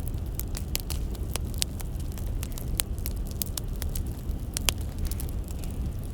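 Wood fire crackling: irregular sharp pops and snaps, several a second, over a low steady rumble, with one louder pop about four and a half seconds in.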